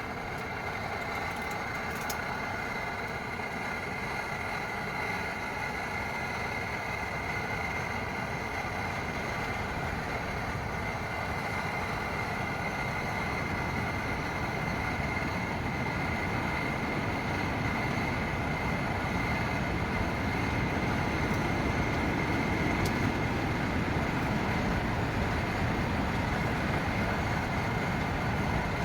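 Steady rushing noise of heavy rain and wind on a camp shelter, growing slightly louder over time.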